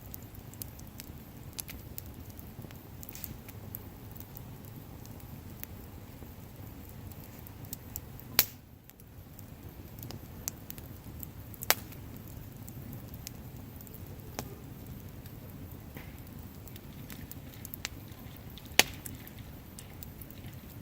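Wood bonfire burning with a steady low rush of flames, crackling with scattered sharp pops, three of them much louder than the rest.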